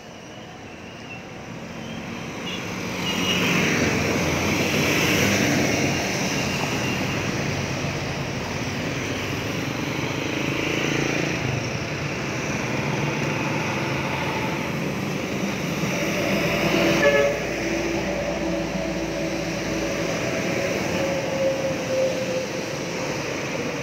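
Street traffic: a motor vehicle comes up and passes close, then steady traffic noise goes on. Later a steady engine tone sets in.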